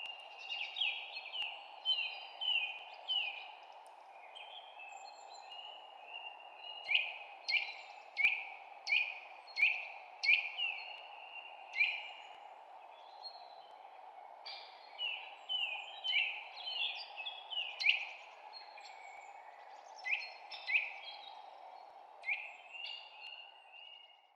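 Small birds chirping: runs of short, sharp, downward-sliding chirps, several a second, with brief pauses between runs, over a steady low background rush.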